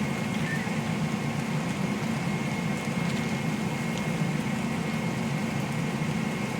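Steady low hum of a running kitchen appliance, with a faint high whine over it.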